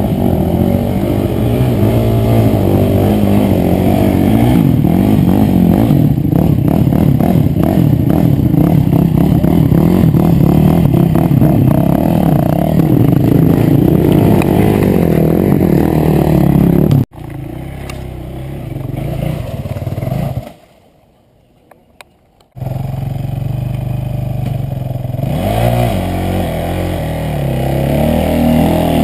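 Enduro motorcycle engines revving hard with some clattering. The sound cuts off abruptly about 17 seconds in, runs lower for a few seconds, drops almost to silence for about two seconds, then the engine noise comes back loud.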